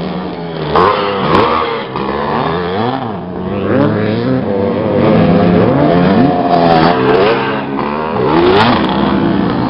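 Several classic motocross bikes racing, their engines revving up and dropping back over and over, several engine notes overlapping.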